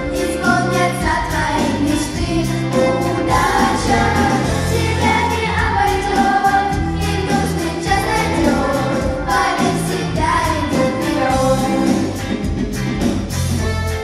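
A song sung over full instrumental accompaniment with a steady beat.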